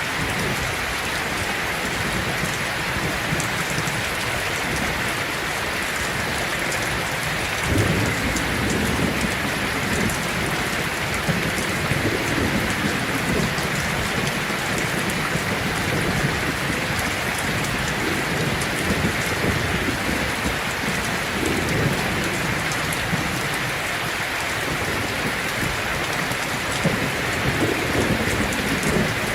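Heavy rain falling steadily on a tin roof, with low rolls of thunder that swell and fade in waves from about eight seconds in.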